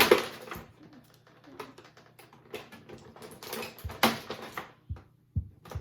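Toy packaging being handled and pried open: irregular clicks, crinkles and rustles, with the loudest crackle right at the start and another about four seconds in.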